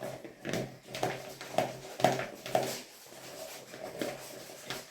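A spoon stirring chopped apples, bananas and grapes in a bowl, with irregular soft knocks and squelches about every half second.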